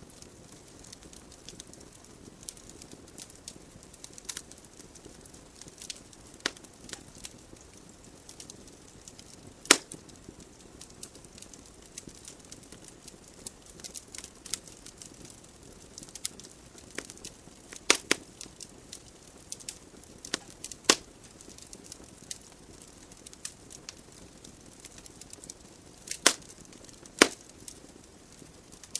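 Wood logs burning in a fireplace: irregular sharp crackles and pops over a soft, steady hiss of flames, with a few louder snaps about 10, 18, 21 and 27 seconds in.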